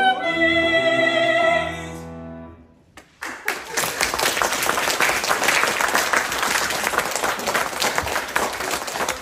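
Operetta singers and accompaniment hold a final chord that stops about two seconds in. After a brief silence, audience applause starts about three seconds in and keeps going.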